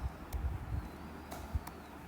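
Faint scattered clicks of writing, over low thumps and rumble.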